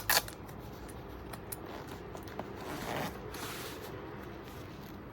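Side zipper of a leather tactical boot pulled quickly: a short, loud rasp at the start, then a softer rasp about three seconds in.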